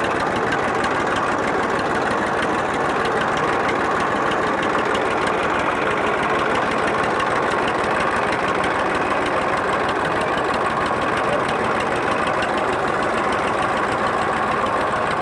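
Massey Ferguson tractor engine running steadily at an even pace.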